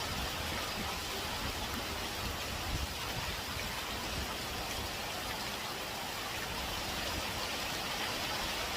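Heavy typhoon rain pouring steadily, with strong wind blowing underneath in uneven gusts.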